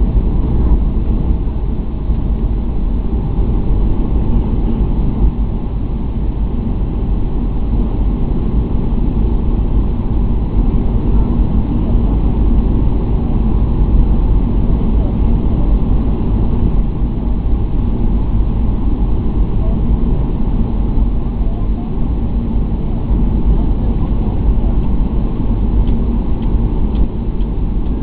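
Steady, loud rumble of an airliner's engines and airflow heard from inside the cabin, mostly low in pitch with a few faint steady tones over it.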